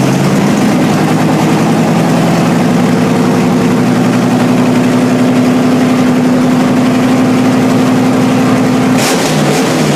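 A car engine, just started, running loudly at a steady idle; its pitch shifts briefly near the end.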